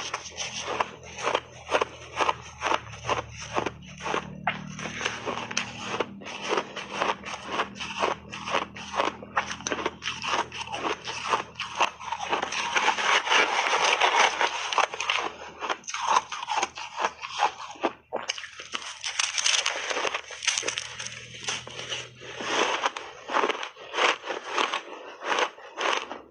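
Shaved ice being bitten and chewed close to the microphone: a rapid, unbroken run of crunches that thickens into near-continuous crunching about halfway through.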